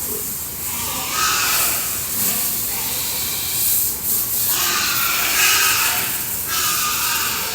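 A water spray hissing steadily as it washes down pigs in their pen, with pitched sounds rising and falling over it about a second in and again around five seconds.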